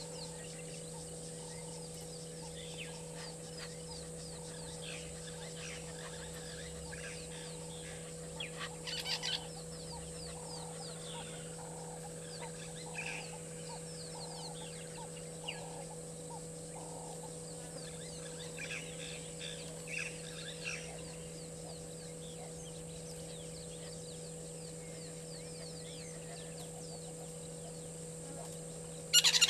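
Wild birds calling, with many short calls scattered throughout, a run of repeated lower notes in the first half, and a loud burst of calls near the end. A steady electrical hum runs underneath.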